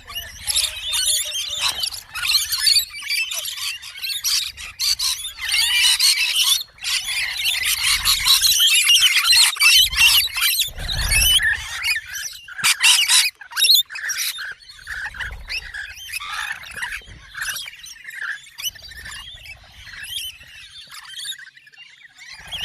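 Many small birds chattering and chirping at once, a dense run of overlapping high calls that is loudest for the first half and thins out after about fourteen seconds.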